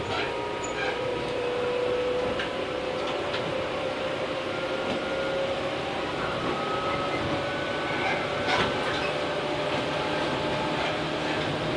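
Interior sound of a Tobu 8000 series electric train car: steady mechanical rumble with a thin whine that slowly rises in pitch, and a brief clatter about eight and a half seconds in.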